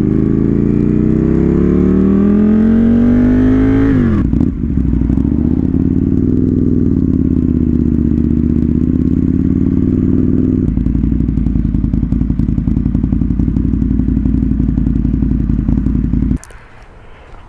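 Aprilia Tuono 1000R motorcycle's V-twin engine, loud, heard while riding: the revs climb for about four seconds, drop suddenly as the throttle closes, then it runs steadily at lower revs. The engine sound cuts off abruptly near the end.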